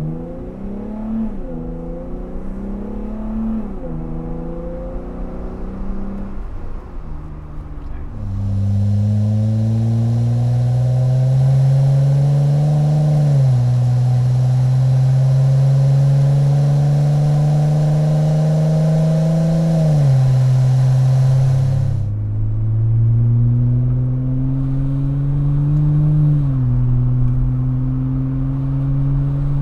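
2018 Jeep Wrangler JL's 3.6-liter V6 running through a Magnaflow Off-Road Pro Series cat-back exhaust, accelerating through the gears. The exhaust note climbs steadily in pitch and drops suddenly at each upshift, several times over. It is louder and brighter for a stretch in the middle.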